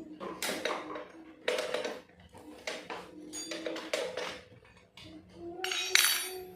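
Metal tools and parts clinking and clanking while a motorcycle exhaust is being fitted: several irregular knocks, some with a short metallic ring, the loudest near the end.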